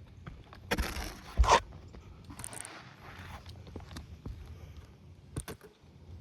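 Camera being handled and set down on an asphalt-shingle roof: two short scraping rubs about a second in, a longer softer scrape around two and a half seconds, and a few light knocks near the end.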